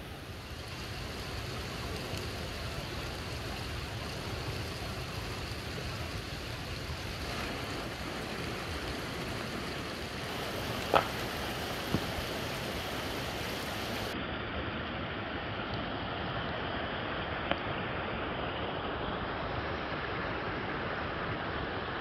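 Steady rushing noise, with three short sharp clicks in the second half.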